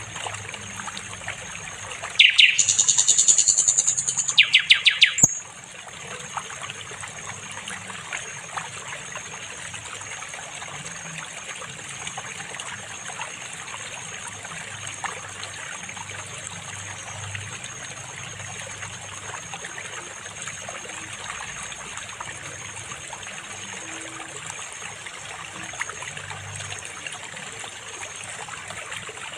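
A sikatan londo flycatcher sings one loud, rapid trill of quickly repeated notes, lasting about three seconds from about two seconds in. Behind it, water trickles steadily, with a constant high thin whine.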